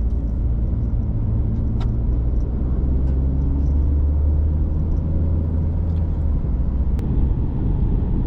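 Car road and engine noise from inside the cabin while driving: a steady low rumble with a faint engine hum.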